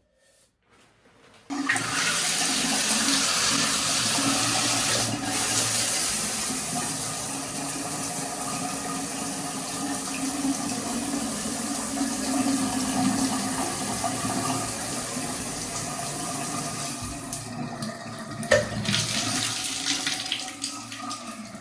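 Water turned on hard at a tap about one and a half seconds in and left running in a steady, loud rushing stream, with a brief knock near the end.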